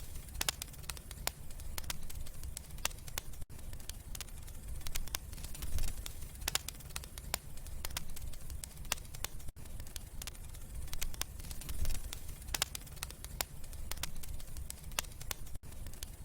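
Wood fire burning in a fireplace, crackling and popping irregularly over a low, steady rumble of the flames.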